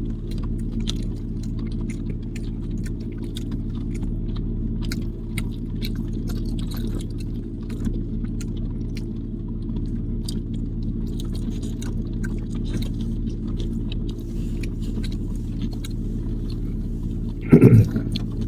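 Someone chewing boiled corn on the cob, with small wet clicks and smacks of the mouth, over the steady low hum of a car's idling engine. A short loud burst of voice comes near the end.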